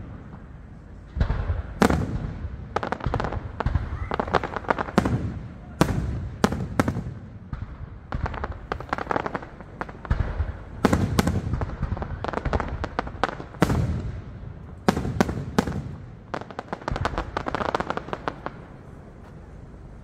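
Aerial fireworks going off: repeated sharp bangs of shells bursting, with spells of rapid crackling between them.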